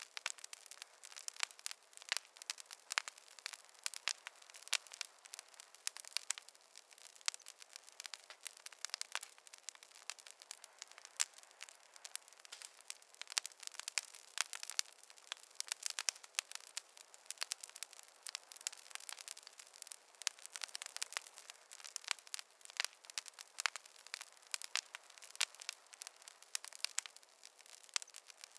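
Wood fire crackling: a steady, irregular stream of sharp pops and snaps from burning logs over a faint hiss.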